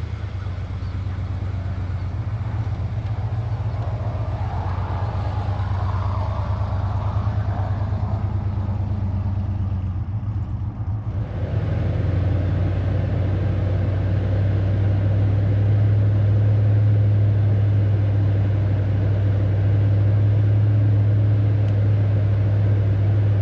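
Pickup truck driving, heard from inside the cab: a steady low engine and road drone. It dips briefly about ten seconds in, then comes back louder and steadier.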